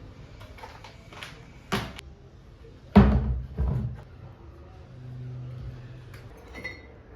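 A few sharp knocks or bumps, the loudest about three seconds in, followed by a brief low hum.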